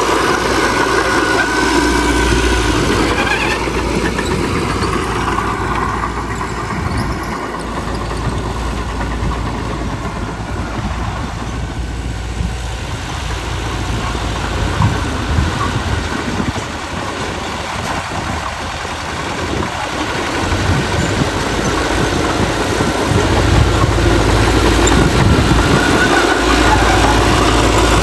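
Diesel engine of heavy earthmoving machinery, a bulldozer or dump truck, running steadily. It eases off somewhat in the middle and grows louder again near the end.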